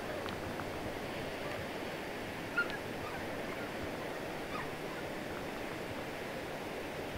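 Steady wash of ocean surf, with a few faint short chirps and one brief sharp one about two and a half seconds in.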